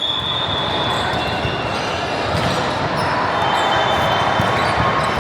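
Indoor volleyball play in a gym: the ball being hit and bouncing, over a steady hubbub of players and onlookers, with a few brief high-pitched tones.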